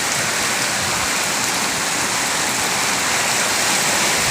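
Heavy rain pouring down: a steady, dense hiss of falling water.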